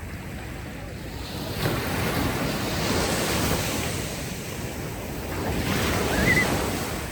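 Ocean waves washing ashore on a beach: surf swells in, eases, then a second wave swells and breaks near the end. A brief high chirp rises over the second wave.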